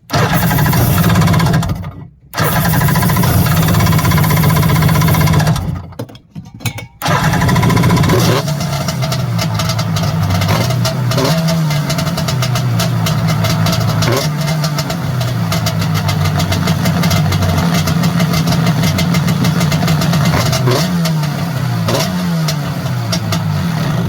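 Yamaha SJ700 SuperJet's two-stroke twin engine running, now that it has been repaired. It cuts out briefly twice in the first seven seconds, then runs steadily, its pitch rising and falling with the throttle.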